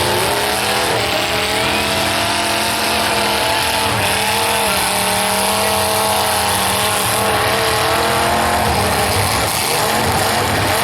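Demolition derby car engines running and revving, their pitch rising and falling as the cars drive about the arena.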